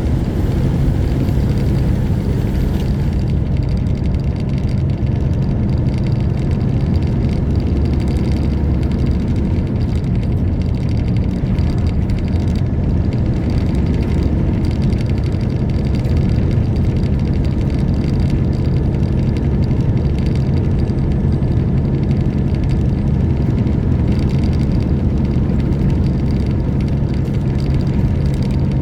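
Semi-truck diesel engine running steadily under way, a constant low drone mixed with road noise.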